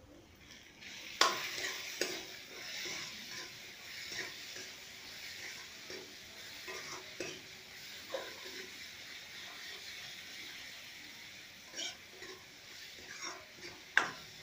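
Onion, chilli and mango frying in hot oil in a steel kadai: a steady sizzle that starts about a second in, with a spatula clinking and scraping against the pan as it stirs. There is a sharp metal clank about a second in and another near the end.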